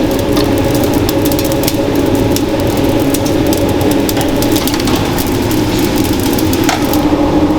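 Steady hum of running food-processing machinery, with many light clicks and clinks over it.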